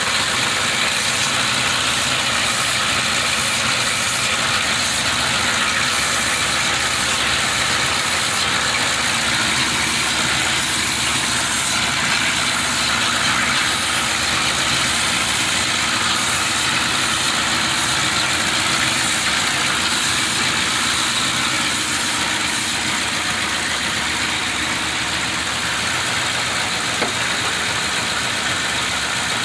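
Ford Crown Victoria's V8 engine idling steadily, heard up close in the open engine bay.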